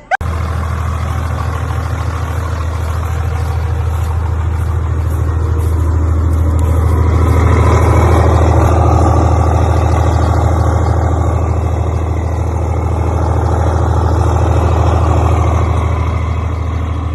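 Truck engine running with a deep, steady drone. It swells louder about halfway through, eases, swells again, then drops back near the end.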